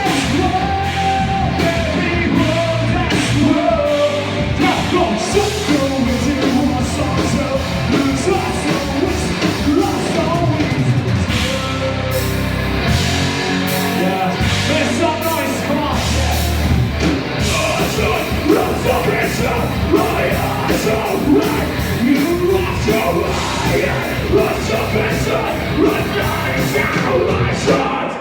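Live heavy rock band playing loud, with distorted guitars, pounding drums and shouted vocals.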